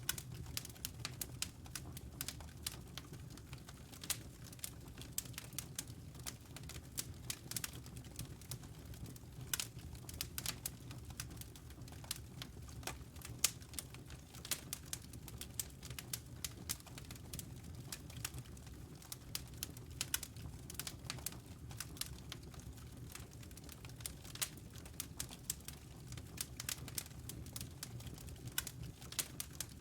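Wood fire burning in a fireplace: logs crackling with many small irregular pops and snaps over a low, steady rumble.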